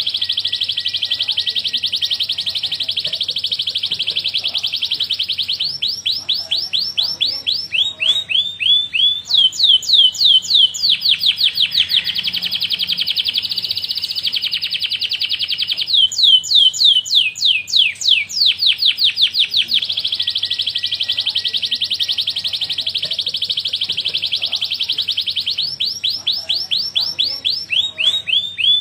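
Domestic canary singing one long, unbroken song: fast runs of sharply falling repeated notes alternating with dense, rolling trills.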